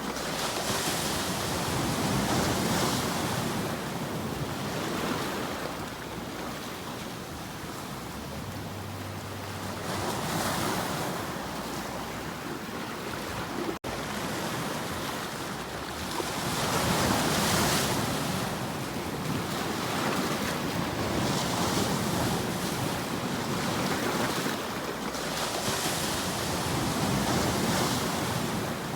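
Ocean waves breaking and washing in, the surf swelling and falling back every few seconds. The sound drops out for an instant about fourteen seconds in.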